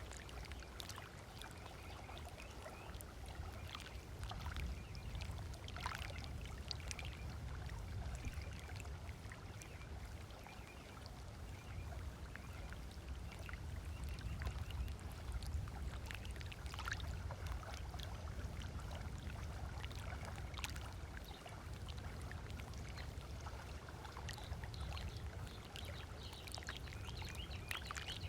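Small waves lapping and splashing gently on a sandy shore in a steady stream of little splashes, over a constant low rumble.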